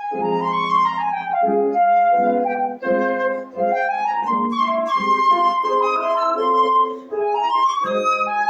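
Flute playing a slow, lyrical classical melody over piano accompaniment.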